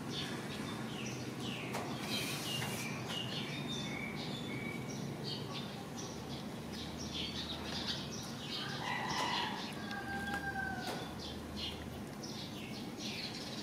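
Small birds chirping over and over, quick high chirps with a few longer whistled notes, over a low steady hum.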